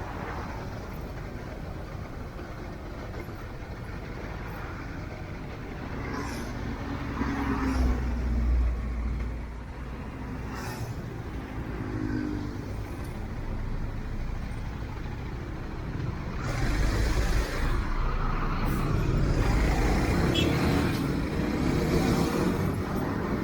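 Road traffic: motor vehicles running with a steady low rumble, swelling louder about seven seconds in and again from about sixteen seconds on.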